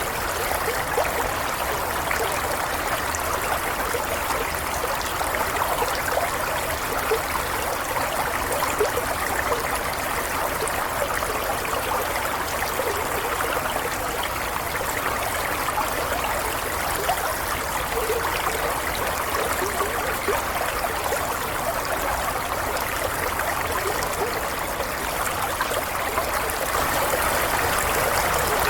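Flowing stream water, a steady babbling and trickling.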